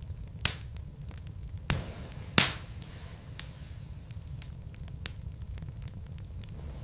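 Wood fire burning in a fireplace: a steady low rumble with scattered crackles and sharp pops of burning logs. The loudest pop comes about two and a half seconds in.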